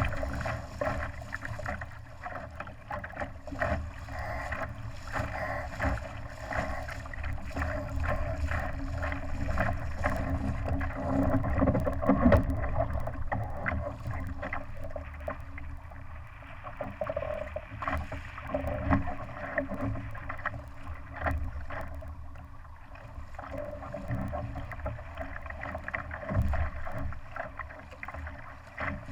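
Water rushing and splashing along the hull of a small Laser sailing dinghy, with wind and frequent short knocks and clicks. It swells louder about twelve seconds in.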